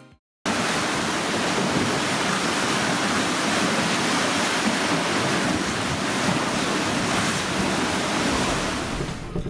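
Steady rush of wind and sea water, starting suddenly about half a second in and running evenly without any tone or rhythm.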